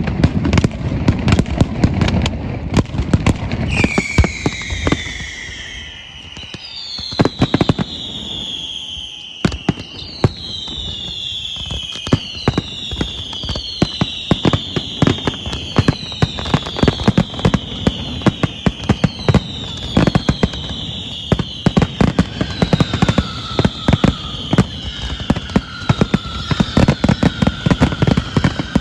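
Fireworks display going off in rapid, overlapping bangs and crackles. From about four seconds in, many whistling fireworks join in, each whistle falling in pitch.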